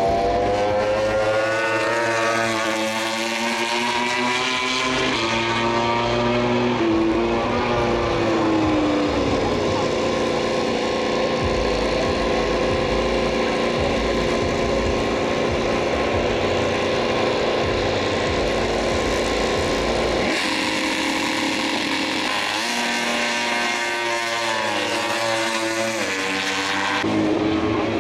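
MotoGP racing motorcycles, 1000 cc four-stroke prototypes, revving and accelerating hard one after another on practice starts, engine pitch rising in steps as they shift up. A sudden change in the engine sound about twenty seconds in.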